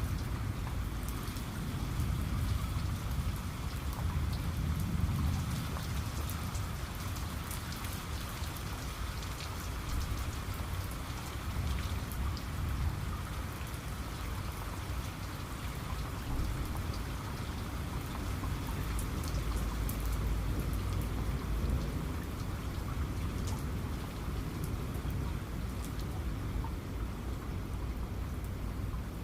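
Steady rain falling, with fine drop ticks on hard surfaces. Distant thunder rumbles low underneath, swelling about five seconds in and again around twenty seconds.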